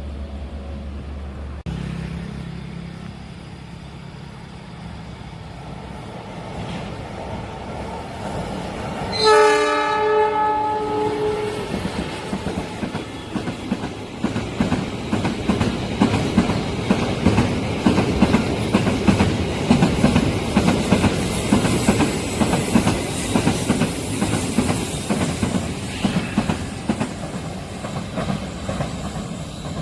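A train approaching and sounding its horn once, a single blast of about two seconds that is the loudest moment. Its cars then pass close by with fast, rhythmic wheel clatter over the rail joints.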